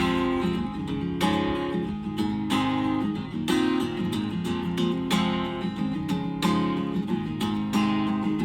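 Acoustic guitar strummed in a steady rhythm, an instrumental passage of a folk song between sung verses.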